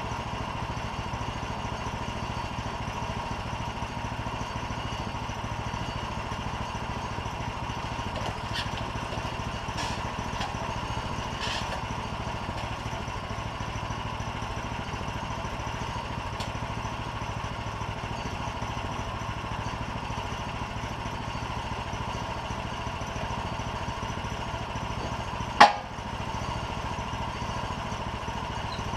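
An engine running steadily at a constant speed, with a single sharp knock about 25 seconds in.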